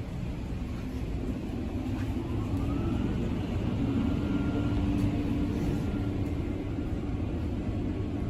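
Steady low rumble of car engines idling, with a humming tone that swells about four seconds in.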